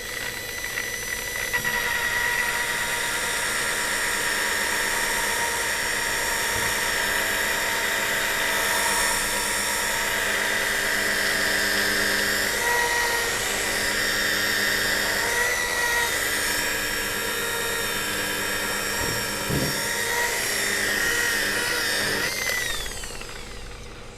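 Electric polishing machine running steadily with a high whine while polishing a headlight lens, then spinning down with a falling whine near the end.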